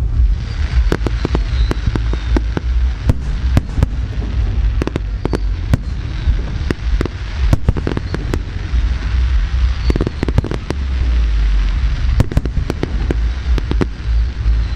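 Fireworks display: a rapid, irregular run of sharp bangs and crackles from bursting shells and spark fountains, over a steady low rumble and hissing.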